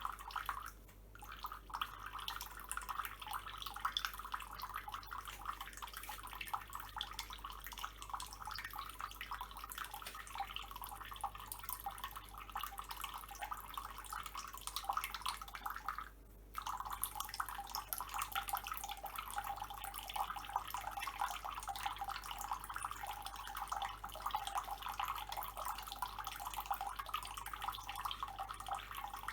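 Water running from a tap and splattering, steady apart from two brief breaks, once about a second in and again about midway.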